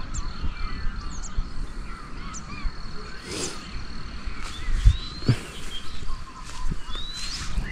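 Several birds chirping and calling, with a harsher, caw-like call about three and a half seconds in and a thin steady high tone through the first half. A couple of low thumps come near the middle.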